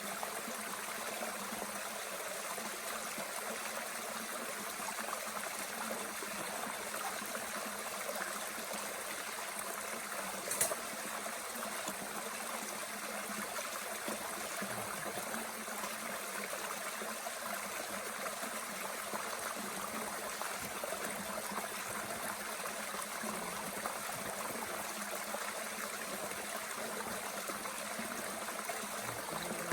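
Mountain stream running steadily, an even rush of water, with one sharp pop about ten seconds in.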